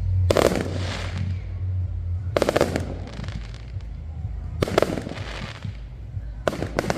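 Fireworks going off: four bursts about two seconds apart, each a quick cluster of cracks, over a steady low hum.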